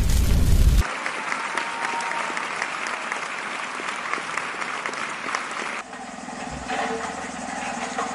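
A loud low rumble cuts off abruptly under a second in and gives way to an audience applauding, a dense crackle of many hands clapping. About six seconds in the clapping stops and a quieter, murmuring background takes over, with one low thump.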